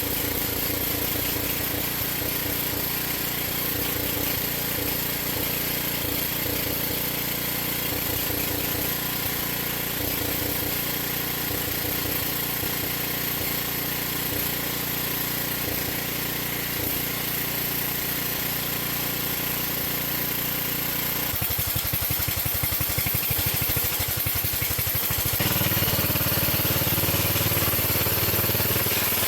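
8-horse Briggs & Stratton single-cylinder engine on a Wheel Horse 607 garden tractor running, with an irregular, uneven beat at idle. About three-quarters of the way through it speeds up, and near the end it runs faster and louder.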